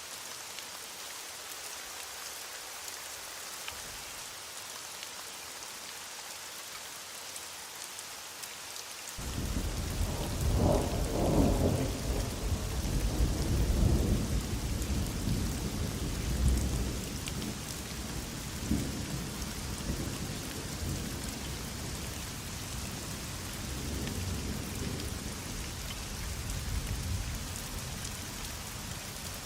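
Heavy rain falling steadily. About a third of the way in, thunder breaks suddenly into a long, low rolling rumble that is loudest for a few seconds, then swells and fades in weaker waves as it dies down.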